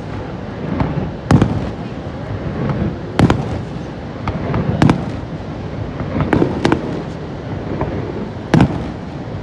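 Aerial fireworks shells bursting, about six sharp bangs a second or two apart, each with an echoing tail, over a steady background din.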